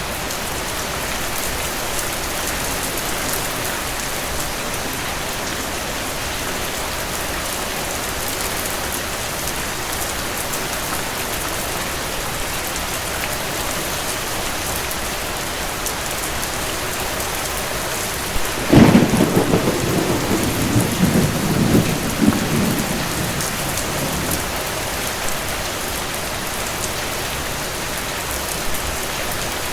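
Steady rainfall with a sudden clap of thunder about two-thirds of the way through: a sharp crack that becomes a rolling rumble lasting several seconds before the rain alone carries on.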